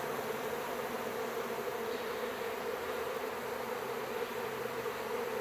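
Honey bees buzzing en masse around a hive after swarming, a steady hum with no break.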